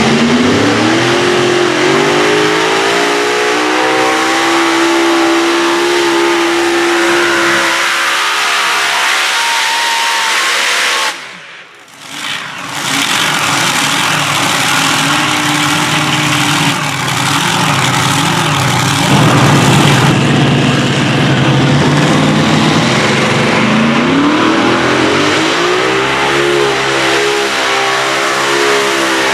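Modified pulling tractor's engines run hard at full throttle, climbing in pitch and then holding high. About eleven seconds in the sound breaks off suddenly for a second. It comes back with engine noise and another climb in pitch near the end.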